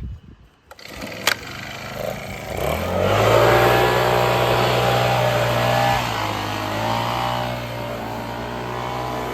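Small petrol engine revving up after a sharp click and then running steadily at high speed, with a loud airy noise over the engine note.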